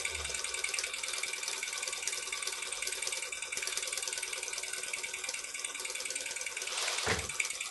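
Small live-steam model engine running fast: a steady hiss of rapid exhaust beats, with a single knock about seven seconds in.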